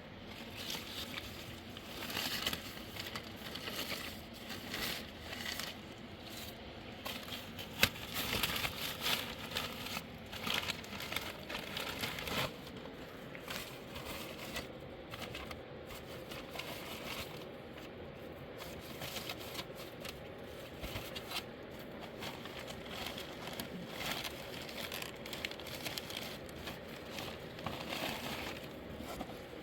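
Irregular crackling and rustling with scattered sharp clicks, busiest in the first half, with one sharp click about eight seconds in.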